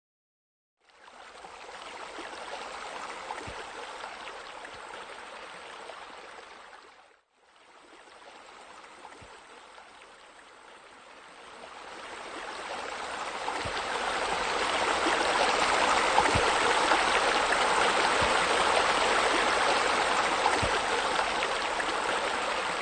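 Water from a rock waterfall splashing into a pool, a steady rushing sound. It starts about a second in, fades out briefly about seven seconds in, then comes back and grows louder from about twelve seconds.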